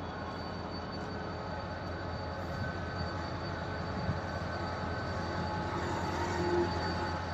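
Restored vintage streamlined passenger train rolling slowly past on the track: a steady rumble of wheels and running gear that grows a little louder as the cars go by.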